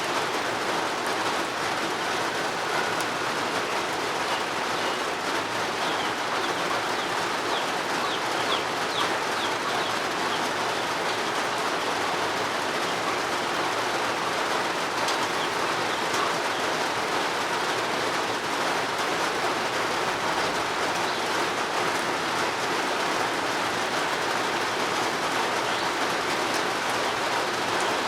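Steady rain falling, an even hiss with no break. A few faint, short bird chirps come through the rain about a quarter to a third of the way in.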